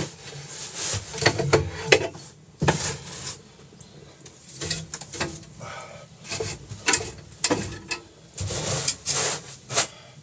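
Repeated, uneven scraping and rubbing strokes with sharp knocks: snow and ice being cleared off a boat's deck.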